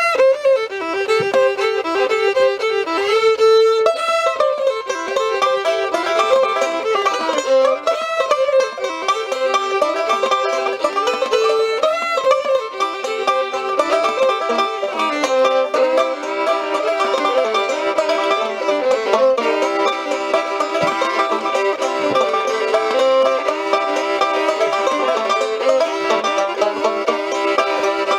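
Live acoustic string-band music: the instrumental opening of a folk song, with held melody notes over plucked strings and no singing.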